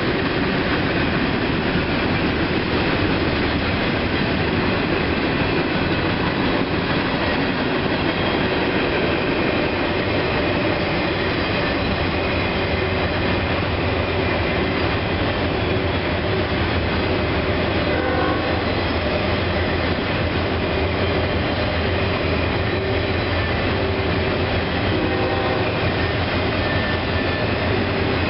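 Freight train cars rolling steadily past, boxcars and autoracks on steel wheels running over the rails.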